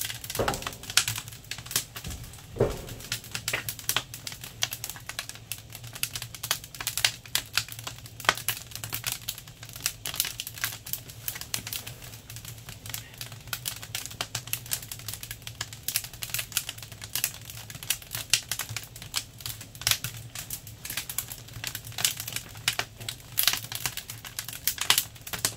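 Firewood crackling as it burns in a large wood stove: irregular sharp snaps and pops, several a second, over a low steady hum.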